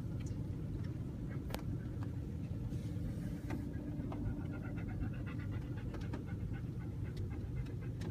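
A dog panting inside a car, over the steady low rumble of the car.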